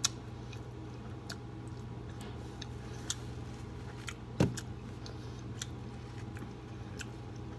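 Close-up eating sounds: chewing with scattered small clicks and ticks over a steady low hum, and one louder knock about four and a half seconds in.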